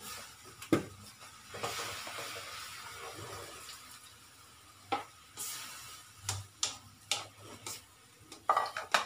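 Water poured from a plastic bowl into a wok of pork and liver, then a spatula stirring the meat and clacking against the wok several times, most often near the end.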